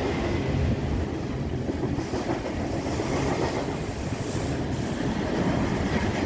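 Norfolk Southern freight train's cars rolling past, a steady noise of steel wheels running over the rails.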